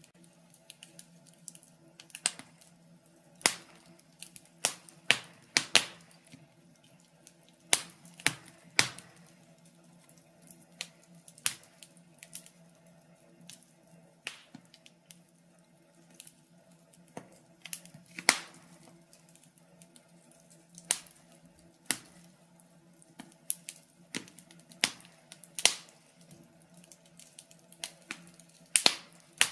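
Wood fire in a fireplace crackling, with sharp irregular pops roughly once a second.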